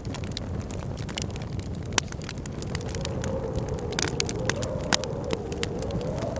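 Wood fire crackling in a fireplace, with frequent sharp pops over a low rumble. From about halfway a wavering, rising-and-falling howl of blizzard wind joins in.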